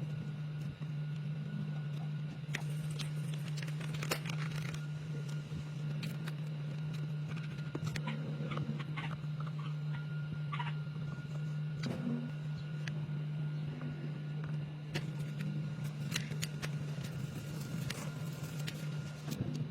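Steady low motor hum with scattered clicks and light scrapes.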